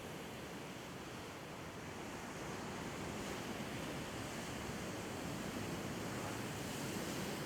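Sea waves washing on the shore with a breeze, a steady surf wash that swells gradually toward the end.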